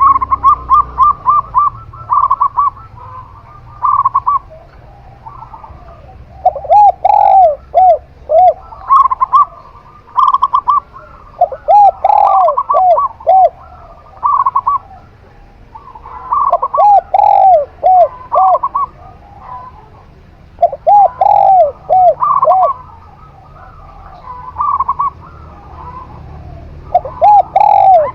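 Zebra dove (perkutut) and spotted dove (tekukur) cooing in repeated phrases every few seconds: a quick higher series of coos mixed with a lower series of arching coos.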